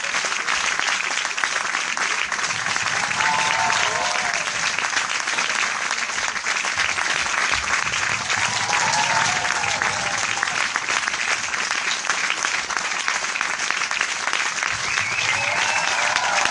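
A large crowd applauding steadily, dense rapid clapping with no letup. A few voices call out from the crowd three times.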